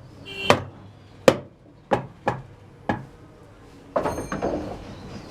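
Five sharp knocks or taps, spaced roughly half a second apart, followed from about four seconds in by a busier, continuous clatter of workshop noise.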